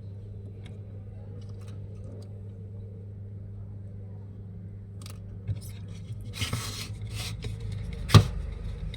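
Small tools and parts being handled during a repair: faint ticks, then scraping and clicks with one sharp click near the end, over a steady low hum.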